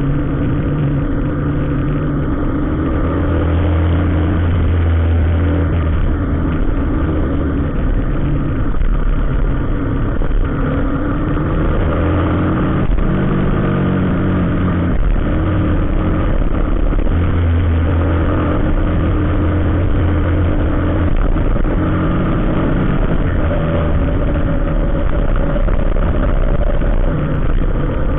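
Road vehicle engines running at low revs in slow traffic, a steady low drone that rises and falls in pitch a few times.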